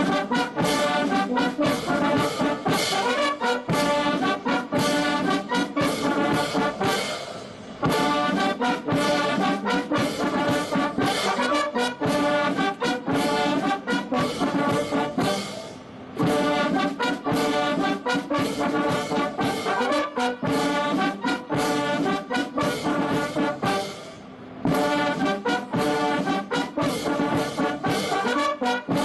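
Military brass band playing, trumpets and trombones over a steady beat, in phrases of about eight seconds with brief breaks between them.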